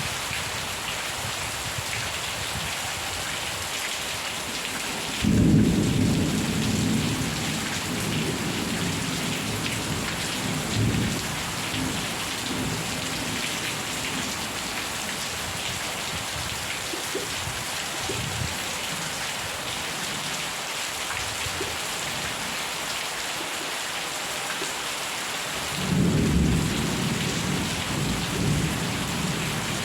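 Steady heavy rain hissing, with two rolls of thunder: one breaking out suddenly about five seconds in and rumbling on for several seconds, the other starting near the end.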